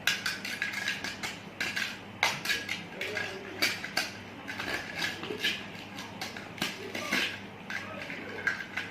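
Dishes and utensils being handled while a pizza is made, with quick, irregular clinks and clatters.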